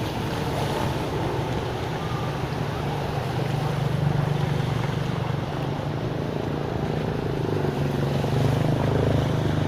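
An engine running steadily at a constant speed, a low droning hum under a rushing noise.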